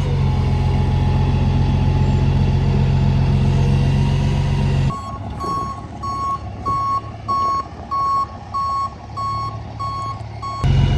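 A vehicle engine running steadily, then a truck's reversing alarm beeping about twice a second, around ten single-tone beeps. The engine sound comes back abruptly near the end.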